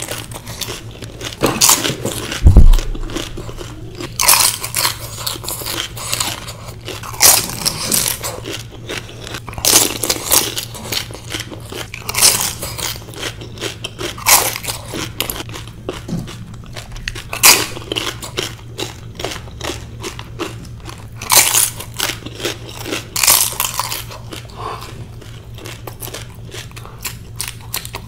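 Close-miked chewing of pani puri: the crisp, hollow fried shells crunch sharply every second or two between softer chewing. A heavy thump about two and a half seconds in is the loudest sound.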